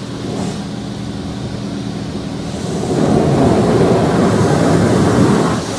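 Automatic car wash spraying water over the car's roof and body, heard from inside the cabin as a steady rushing that grows louder about three seconds in.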